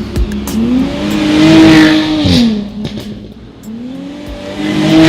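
Jaguar F-Type V6 S's supercharged 3.0-litre V6 exhaust, revved twice: each time the pitch climbs, holds briefly and drops back.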